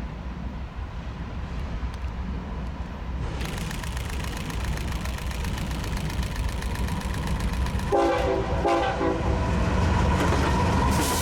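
Diesel-hauled train approaching and passing, its low rumble building steadily. About 8 seconds in, the locomotive's air horn gives two short blasts.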